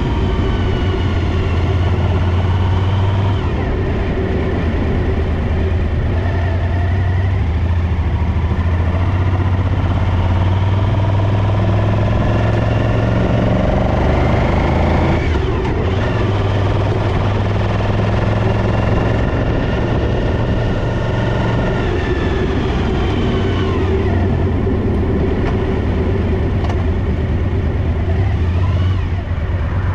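Suzuki DL1000 V-Strom's V-twin engine running with a steady low drone, its pitch shifting a little now and then. The engine has a misfire on the rear cylinder.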